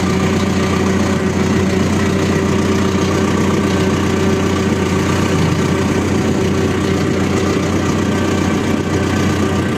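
ACE 550 DI tractor's diesel engine idling steadily, with an even low-pitched throb and no revving.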